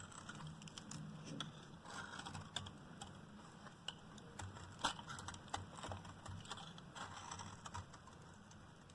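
A blade cutting into a bar of dried, hard Duru soap, making a dense run of small crisp crunching clicks and crackles, with one sharper snap about five seconds in.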